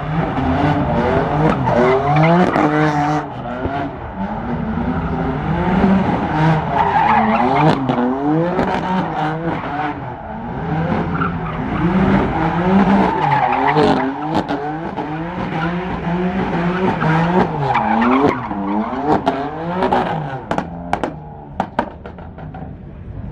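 A car drifting: its engine revs up and down over and over as the driver works the throttle, with tyres squealing through the slide. Several sharp cracks come near the end.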